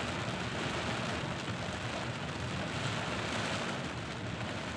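Heavy rain falling on a moving car, heard from inside: a steady, dense hiss of rain on the roof and windshield.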